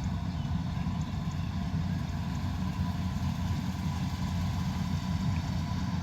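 Kubota combine harvester running steadily, a constant low engine and machinery drone with a faint steady whine above it.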